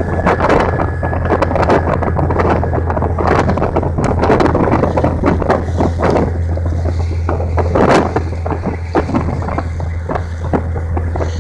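A motor boat under way: its engine gives a steady low drone while wind buffets the microphone in irregular gusts and knocks.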